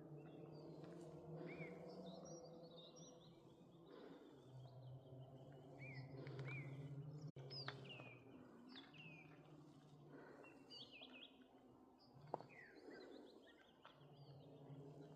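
Small birds chirping and calling, faint, in short rising and falling notes throughout, over a low background rumble that comes and goes. There is a single sharp click about twelve seconds in.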